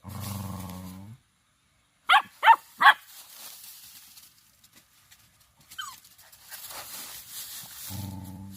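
German Shepherd dog barking three times in quick succession, short sharp barks about two seconds in. A low, steady drone sounds at the start and again near the end.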